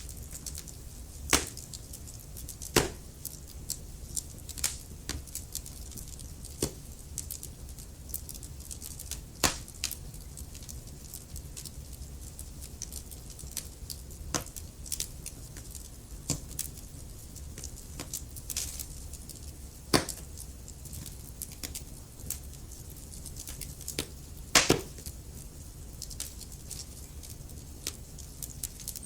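Wood fire crackling: irregular snaps and pops over a low steady rumble, with a few louder pops, one a quick double snap near the end.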